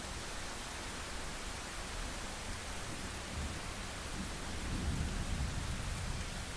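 Steady heavy rain, an even hiss, with a low rumble of distant thunder swelling in the second half.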